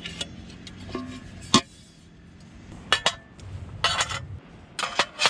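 Camping gear being handled and set down: a handful of sharp knocks and clatters with light rustling between them.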